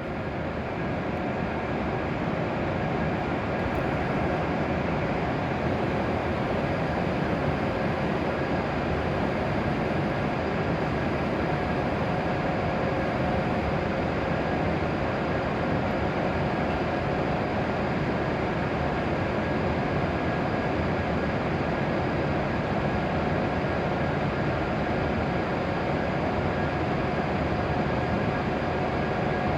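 W7 series Shinkansen train standing at the platform, its onboard equipment running with a steady hum and a few fixed tones over a constant rush of noise.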